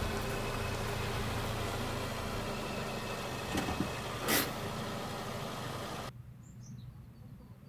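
Steady vehicle engine and road noise with a short sharp sound about four seconds in. About six seconds in it cuts off abruptly to a quiet background with faint bird chirps.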